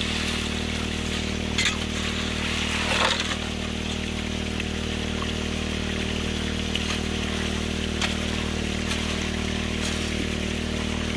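Pump engine running steadily while water rushes through a Gold Hog excavator sluice, with a couple of sharp clicks about one and a half and three seconds in.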